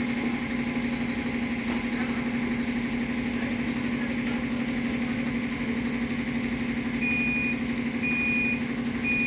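Steady engine-like hum, with three short, even electronic beeps about a second apart near the end, like a timer or controller alarm.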